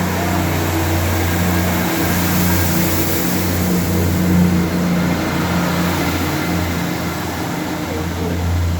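Class 158 diesel multiple unit's underfloor diesel engines working hard as the train pulls away from the platform, a steady deep drone.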